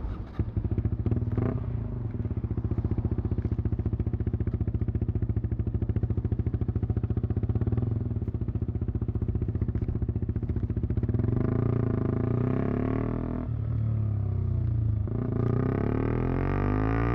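KTM Duke 125's single-cylinder four-stroke engine idling with an even, rapid exhaust beat, then given throttle from about 11 seconds in: the exhaust note rises in pitch, drops off briefly around 13 to 15 seconds, and picks up again near the end.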